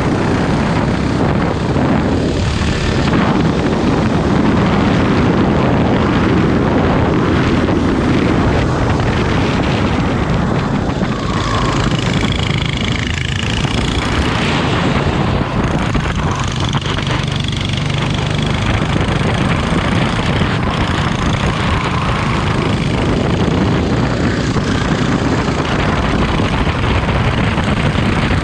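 Go-kart engine running at racing speed, its note rising and falling with the throttle, over a steady rush of wind and road noise.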